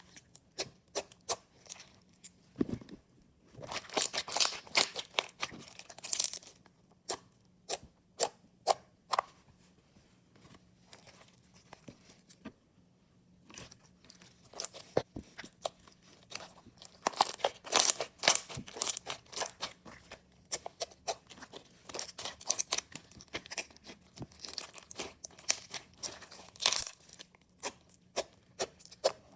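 Water jelly slime being squeezed and poked by hand, giving irregular crackling, crunching and popping, with a few short pauses.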